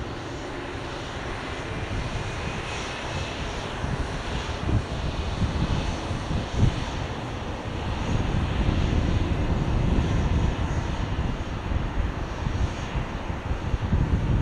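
Jet airliner engines: a loud, broad rushing noise with a deep rumble that grows louder over the first several seconds and then holds.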